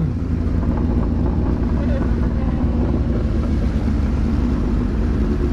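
Kawasaki Z900 inline-four motorcycle engine running at steady revs, mixed with wind rushing over a helmet-mounted camera.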